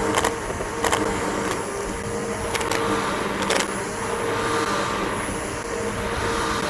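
Bissell BigGreen PowerForce upright vacuum cleaner running steadily over a lawn, a constant motor whine with a few sharp clicks about a second apart early on.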